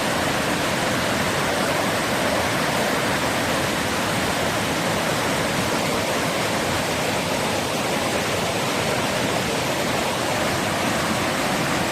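Sea waves: a steady, unbroken rush of surf noise with no distinct breaking crashes.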